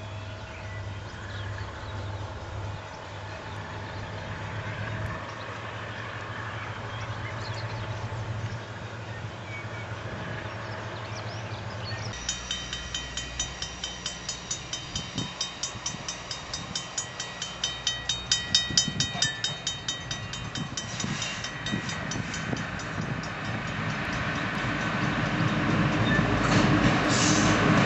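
A diesel locomotive engine hums steadily in the distance. About twelve seconds in, a level-crossing alarm bell starts ringing in even strokes, about two a second, for some nine seconds. Then a DSG diesel-electric shunting locomotive approaches, its engine growing steadily louder.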